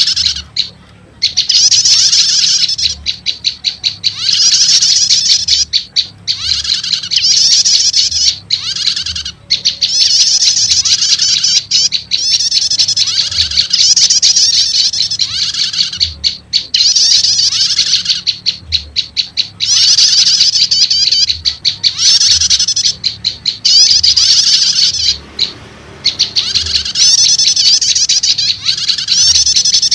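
Bird-lure recording of prenjak calls, the prenjak lumut combined with prenjak setater. It is loud, rapid, high chattering trills repeated in phrases of a second or two with short pauses between them.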